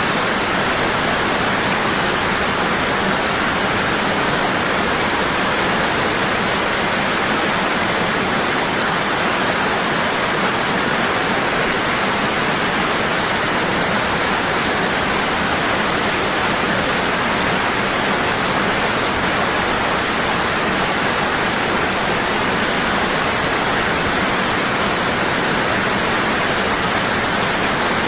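Waterfall: water falling hard and constant into a pool, a steady even rush with no breaks.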